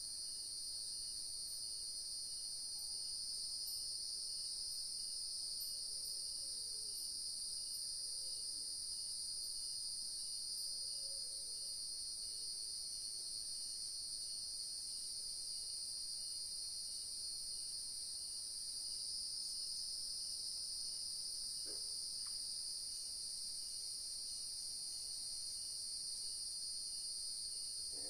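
Dusk insect chorus: crickets trilling steadily and high-pitched, with a faint regular chirp about three times a second. A few faint short calls come through now and then.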